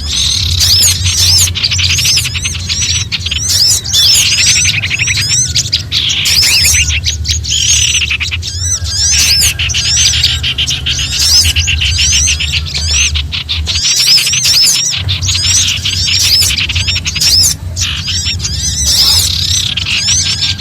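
Bird-lure recording of several small songbirds giving frantic alarm and distress calls: dense, overlapping high-pitched chattering and chirping with rapid repeated notes and short trills, over a steady low hum.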